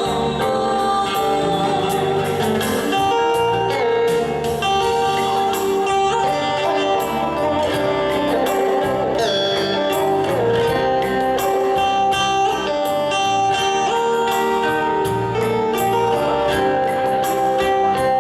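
Live band music with a steady beat, accompanying a Vietnamese song.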